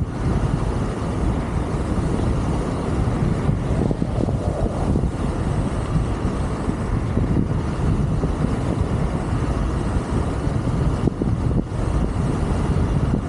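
Wind rushing over the microphone of a rider on an electric scooter at speed: a steady low rumble that wavers in strength.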